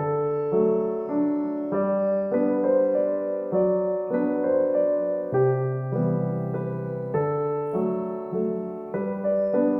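Soft background piano music: a gentle keyboard melody over steady chords, notes changing about every half second.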